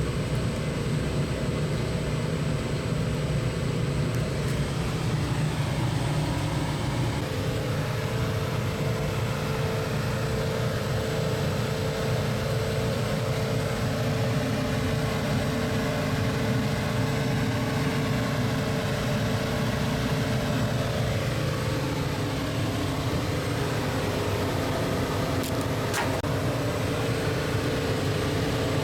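Samsung DVM S system air conditioner running steadily with a low hum. A steady tone comes in about seven seconds in and drops out about twenty-one seconds in, and there are a couple of faint clicks near the end.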